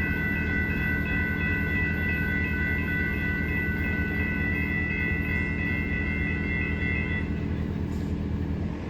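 A train running past at close range: a heavy, steady rumble with a set of steady high-pitched tones above it that stop about seven seconds in, and the sound changes abruptly near the end.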